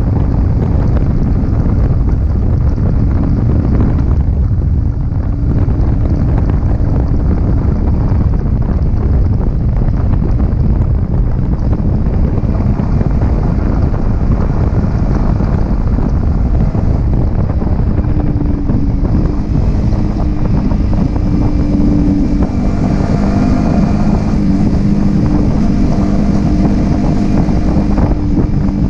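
Yamaha R15M's 155 cc single-cylinder engine running on the move, under heavy wind buffeting on the action camera's microphone. Past the middle the engine settles into a steady hum as it holds constant revs.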